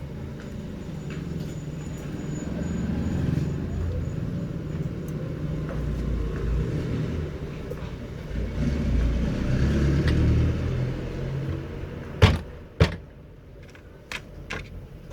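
Ceiling fan rotor spinning on its freshly greased bearings, a low, uneven rumble that swells and fades twice. Two sharp knocks come about twelve seconds in, followed by a few light clicks.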